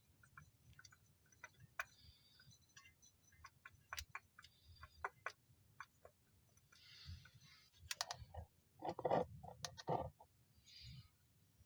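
Scattered clicks, taps and short scrapes of tools and parts being handled during car maintenance, with a few louder knocks about eight to ten seconds in.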